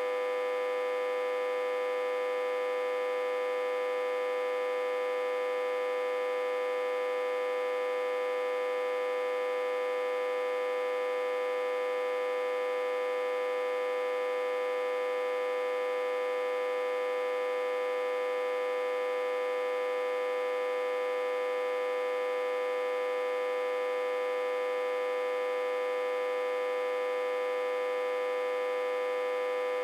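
Autotransformer humming steadily, reverse-connected to a step-down transformer with about 60–80 V on its input. One unchanging tone with many overtones.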